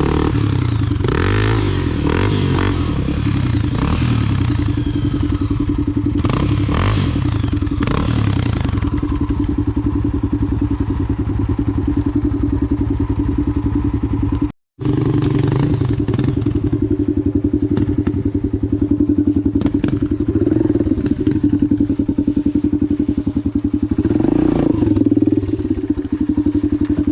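Dirt bike engine running at low revs, its pitch rising and falling in the first several seconds as the throttle is worked, then steadier, with some knocks and clatter. The sound cuts out for a moment about halfway through.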